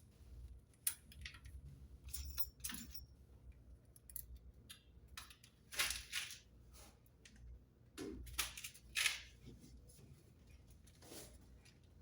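Irregular clicks, scrapes and rustles of hands working with materials, with no steady rhythm. The louder bursts come about six seconds in and again about eight and nine seconds in.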